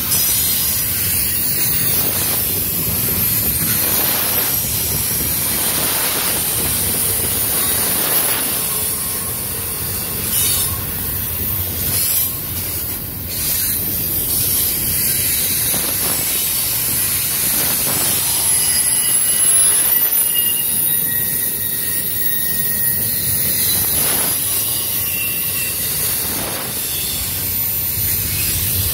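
Double-stack intermodal well cars rolling past: a steady rumble of steel wheels on rail with a high-pitched wheel squeal and a clack every few seconds.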